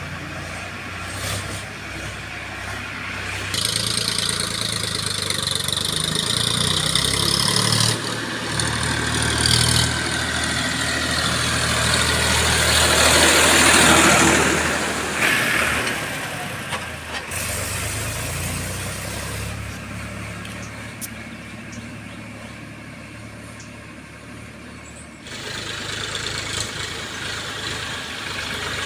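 Diesel engines of a JCB 3DX backhoe loader and a Powertrac 439 tractor running during soil loading, with a rush of noise that builds and fades about 12 to 16 seconds in.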